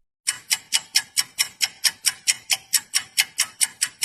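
Fast, even ticking, about four to five ticks a second.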